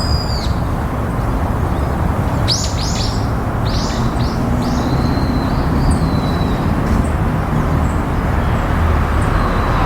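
Small songbird calls, a quick cluster of short falling notes a couple of seconds in and a thinner call just after, over a steady low rumble.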